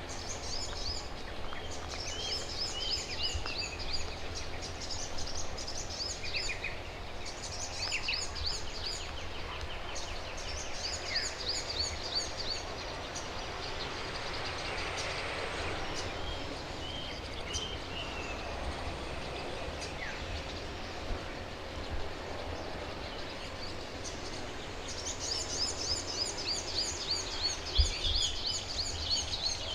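Wild garden birds singing: bouts of fast, high, repeated notes, one at the start, one in the middle and one near the end, with scattered single chirps between them and a steady low rumble underneath.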